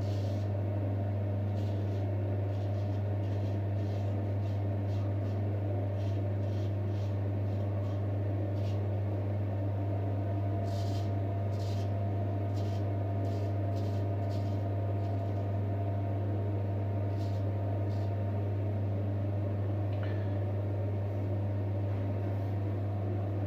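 Short, scratchy strokes of a J. Nowill & Sons straight razor scraping through beard stubble, coming irregularly and most often in the first half. The loudest sound throughout is a steady low hum in the room.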